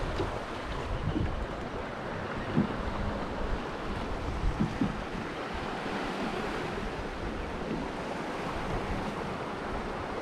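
Sea waves washing around a small dinghy, with wind gusting on the microphone in a steady rush of noise.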